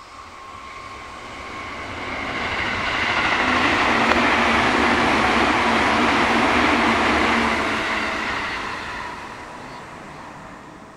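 A JR Tokaido Line train passing at over 100 km/h. The rush of wheels on rail and air builds up, stays loud for about five seconds as the cars go by, then fades away.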